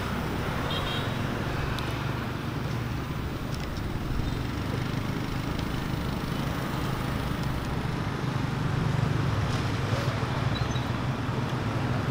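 Steady outdoor traffic noise of passing road vehicles, with a low hum throughout and a few faint clicks.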